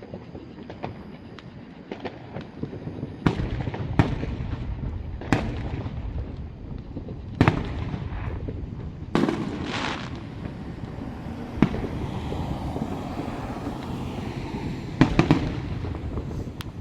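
Aerial fireworks going off: a string of sharp bangs a second or two apart, with a crackling spray after a burst about ten seconds in and a quick double bang near the end, over a low rumble.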